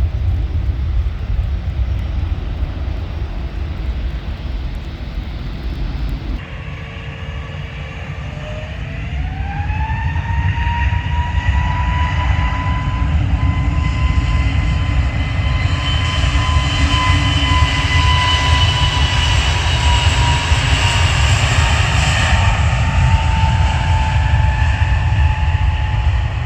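Airbus jet airliner's engines spooling up for takeoff: a deep steady rumble, then about a third of the way in a whine rises and levels off into a steady high whine at takeoff thrust, easing slightly near the end.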